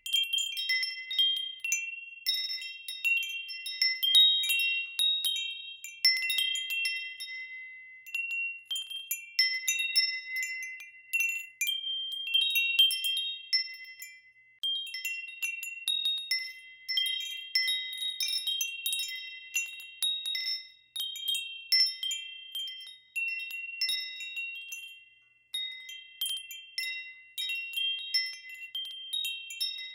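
Wind chimes ringing, struck irregularly several times a second, their high bell-like tones overlapping and fading, with a few brief lulls.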